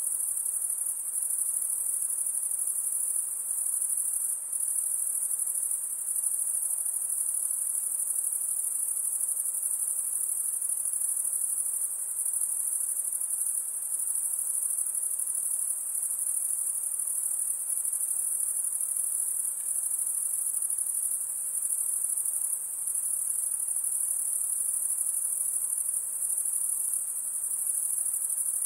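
A chorus of insects making a steady, high-pitched, unbroken shrill.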